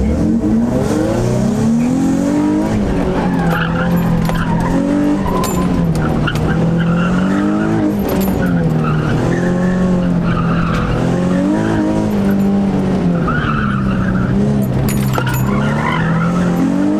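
Nissan 350Z's V6 engine revving up and falling back over and over as it is driven hard through an autocross course, heard from inside the cabin. The tyres squeal in short bursts, about five times, in the turns.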